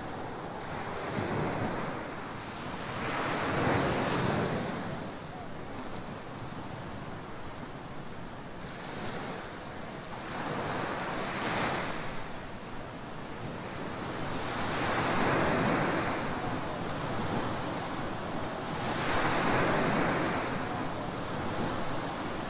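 Ocean surf on a tropical beach: waves breaking and washing up the sand, a rushing surge every few seconds over a steady background wash.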